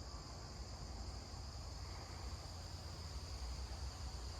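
Crickets chirping in a steady, high-pitched chorus, over a low, steady rumble.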